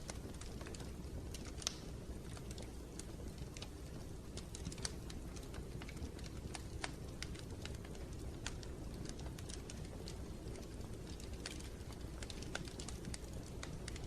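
Wood fire in a fireplace crackling: irregular sharp pops and snaps, several a second, over a steady low rumble of the burning.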